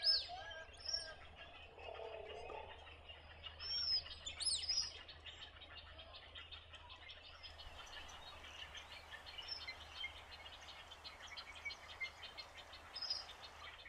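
Several wild birds calling: short, high down-slurred chirps over a dense, continuous chatter of many small calls that grows busier about halfway through.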